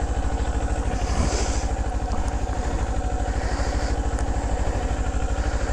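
Kawasaki Z400 parallel-twin engine idling steadily, a fast, even low pulse with no revving.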